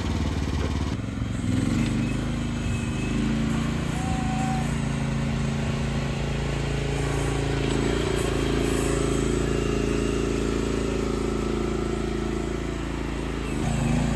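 Mini excavator's engine running steadily, with small shifts in pitch now and then.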